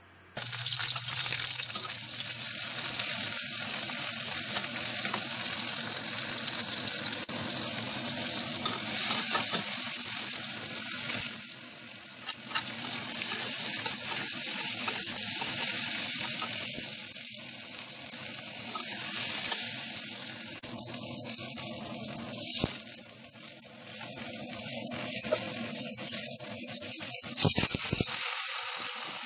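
Long beans and aromatics sizzling as they stir-fry in a metal wok, stirred with a metal spatula. The sizzle eases twice for a moment, and there is one sharp knock near the end.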